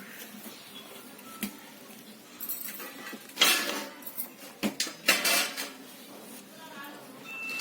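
Metal kitchen dishes and utensils clattering and clinking in a few short bursts, the loudest about halfway through.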